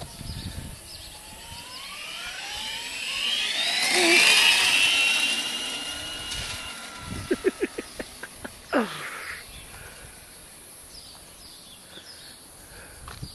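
Electric bike's Turnigy RC brushless motor whining as it speeds up, rising in pitch over about three seconds. It is loudest around four seconds in, then holds and fades away. A few short clicks follow, then a brief falling whine.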